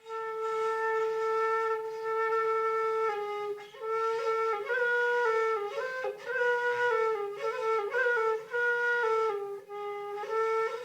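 Background music: a single melody on a flute-like wind instrument. One note is held for about three seconds, then shorter notes step up and down, with a couple of brief breath-like pauses.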